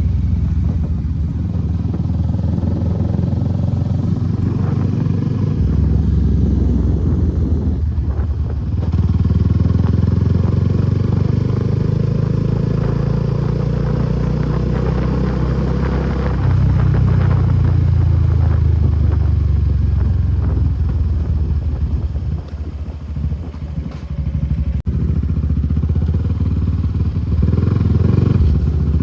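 Suzuki Gixxer SF250's single-cylinder engine through an aftermarket Akrapovic exhaust, under way, its note rising and falling with throttle and gear changes. There is a brief drop about eight seconds in, and a quieter stretch with the throttle eased a little after twenty seconds before it picks up again near the end.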